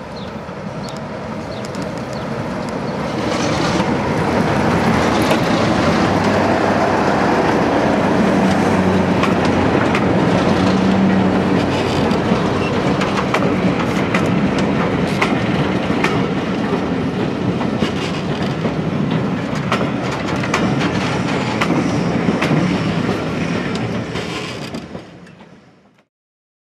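A diesel locomotive passing close by, engine running, followed by its train of coaches rolling past with the wheels clicking over the rail joints. The sound builds over the first few seconds and fades out near the end.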